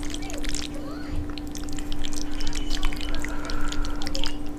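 Close-up wet chewing of fettuccine in red sauce: many quick sticky mouth clicks and smacks, over a steady low hum.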